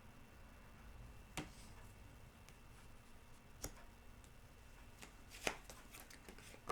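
A few sharp light clicks and taps a second or two apart, typical of tarot cards being handled and laid down on a table.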